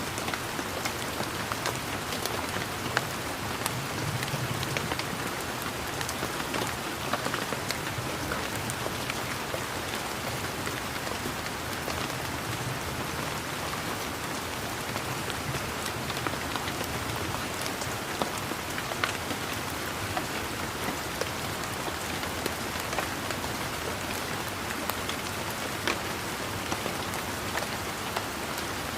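Steady rain falling: a continuous hiss of rainfall with many separate raindrops ticking close by, a few of them louder than the rest.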